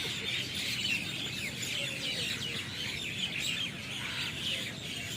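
Dense chorus of many birds chirping and calling together as they settle to roost in a large tree at dusk, a continuous overlapping din of short high calls.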